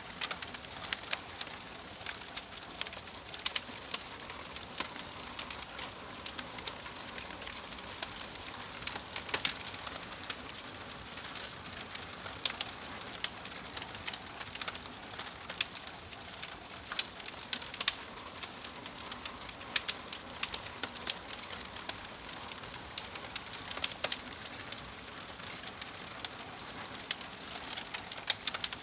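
Wood fire crackling, with frequent irregular sharp pops over a steady soft hiss.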